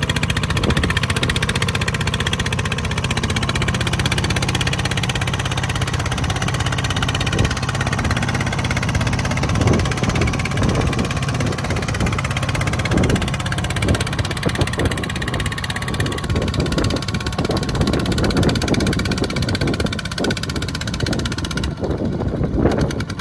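Small tractor engine running steadily with a fast, even putter. Irregular knocks join in after several seconds.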